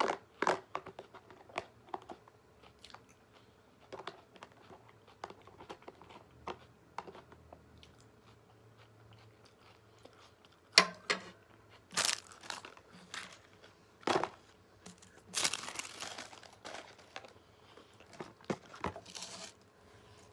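Close-miked eating: chewing and crunching of food with many small mouth clicks, and a few louder crinkling bursts in the second half.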